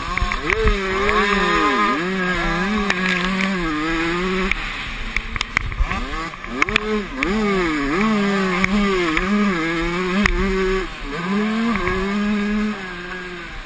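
Motocross bike engines racing on the track, the pitch rising and falling over and over as riders rev up, shift and back off, with more than one bike heard at times.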